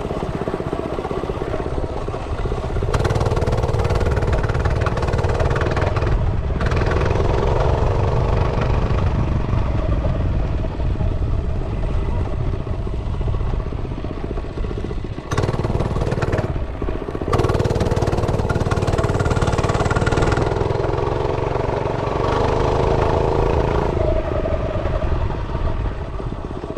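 Realtree RT100 minibike's small four-stroke single-cylinder engine running on a ride, its pitch rising and falling as the throttle is opened and eased. The engine drops away briefly twice around the middle, as the throttle is let off.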